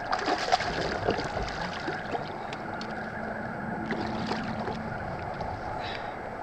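Handling noise from unhooking a caught chain pickerel with pliers in a kayak: a cluster of clicks and rustles, busiest in the first couple of seconds, over water sloshing against the hull.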